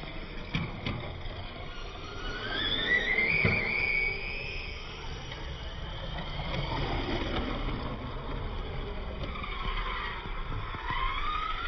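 Electric radio-control touring cars running on the track, their motors whining up and down in pitch as they accelerate and pass, over a bed of tyre noise.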